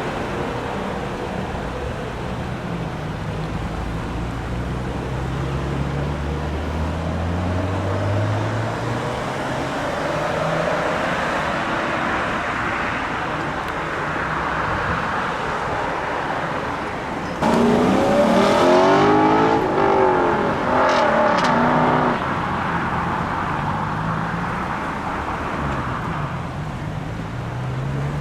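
Classic car engines running and revving: a low engine note climbs in pitch over the first several seconds. A little past halfway a louder engine revs up and down for about four seconds, starting and stopping abruptly.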